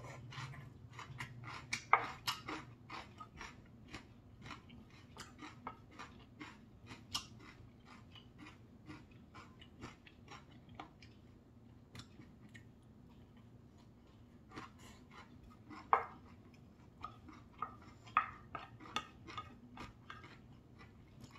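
Close-miked chewing of a mouthful of quinoa rice with soybean paste and greens: a steady run of small, wet mouth clicks, with a few louder sharp clicks, the loudest about two seconds in and again about sixteen seconds in.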